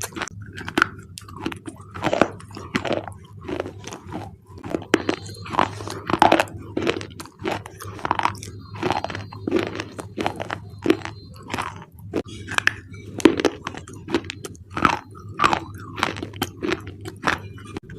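Close-up crunching and chewing of thick black slate bars, the brittle clay-like slate cracking in crisp bites about twice a second.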